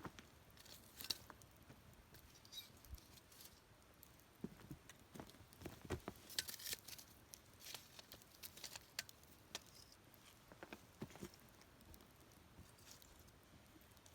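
Wood campfire crackling quietly, with irregular small pops and snaps.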